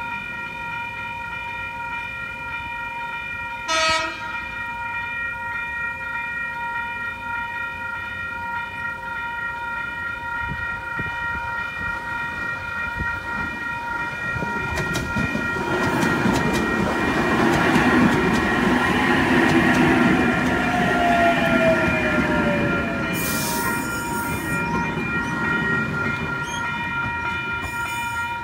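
A level crossing alarm sounds steadily while a NSW TrainLink H-set double-deck electric train approaches and passes. The train's running noise swells from about halfway and is loudest near two-thirds through, with a falling whine. A brief sharp blip comes about four seconds in.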